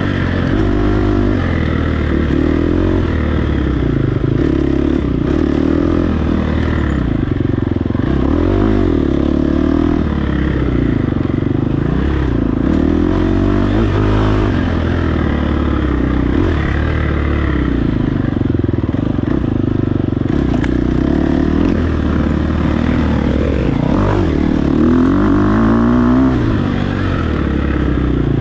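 Dirt bike engine under hard riding, its pitch rising and falling repeatedly as the throttle is worked and the gears change.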